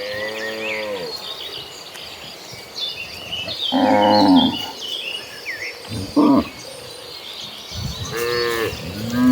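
Cattle mooing, about five calls a few seconds apart, some long and drawn out and one short. High chirping runs behind them throughout.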